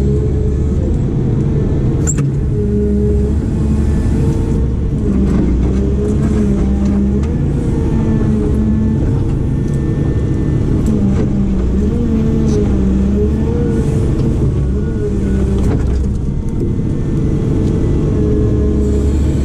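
Heavy machine's diesel engine running steadily, its note rising and falling as the load changes, with a few sharp knocks in between.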